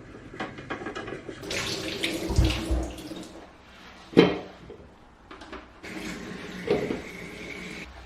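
Water running from a tap into a sink, with a deep thud in the middle and a sharp knock just after it.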